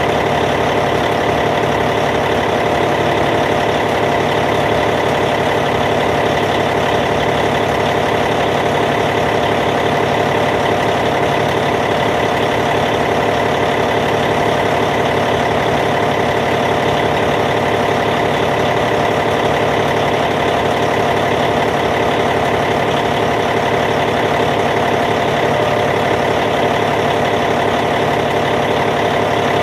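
Caterpillar C15 inline-six diesel engine of a Cat D8T bulldozer idling steadily.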